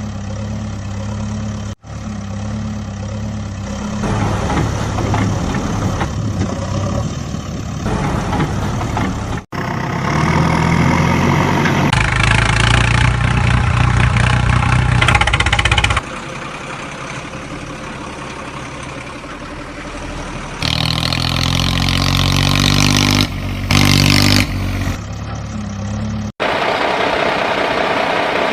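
Diesel-type vehicle engine sounds, idling and revving, spliced together in several segments that cut off abruptly.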